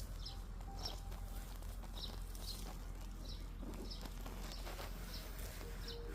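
A small songbird chirping: short, high single chirps repeated about once every half second to second, over a steady low hum.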